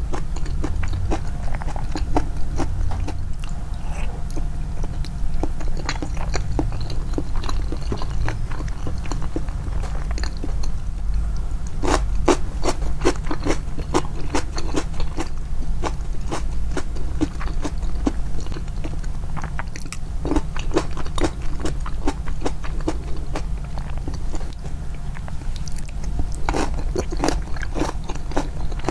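Close-miked, amplified chewing of crunchy food, with dense runs of crisp crunches about twelve seconds in and again near the end.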